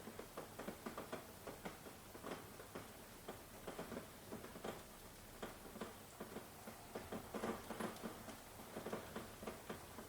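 Rain falling, with drops tapping close by at an irregular rate of several a second over a soft, steady hiss.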